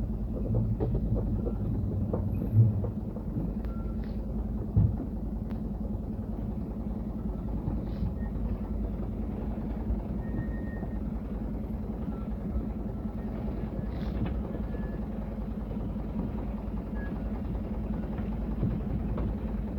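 Truck engine running steadily at low revs, a constant low hum and rumble, with two sharp thumps in the first five seconds.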